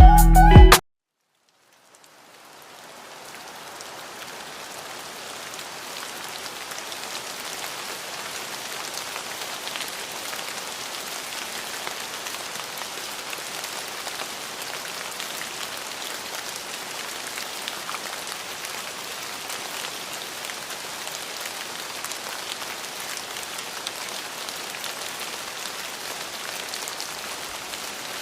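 Steady rain falling, an even hiss with faint pattering drops that fades in over a few seconds and then holds level.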